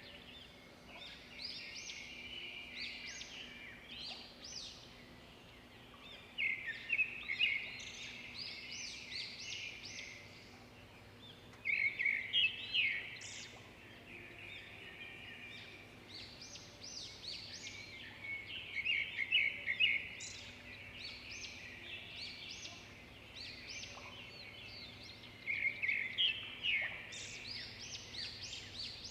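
Forest birds singing, with rapid chirping phrases that come in louder clusters every several seconds.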